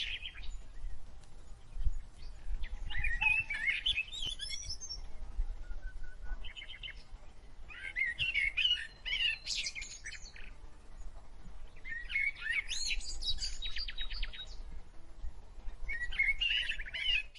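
Birds singing in short bursts of quick chirps and rapid trills, about five phrases a few seconds apart, over a faint low rumble.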